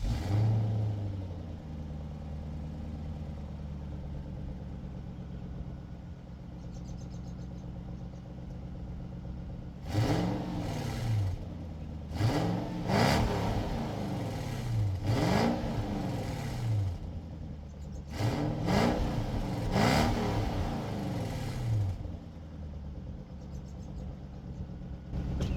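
A 1998 Lexus GS 400's 4.0-litre V8 on its stock exhaust catches and idles steadily. After about ten seconds it is revved in about six quick blips, each rising and falling in pitch, then settles back to idle. It sounds tame, which the owner puts as 'ain't sounding so rich'.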